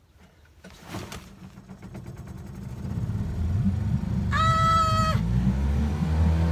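Sailboat's outboard motor starting: a click, then the engine catches and runs unevenly, growing louder over the first few seconds. A brief high-pitched held tone sounds about four seconds in.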